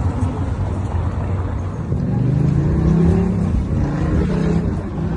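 Steady low engine rumble, with a pitched hum that comes in about two seconds in and fades near the end.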